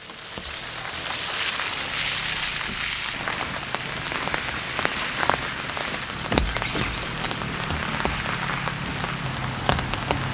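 Heavy rain pouring down, with many sharp drops hitting close by. It fades in over the first second.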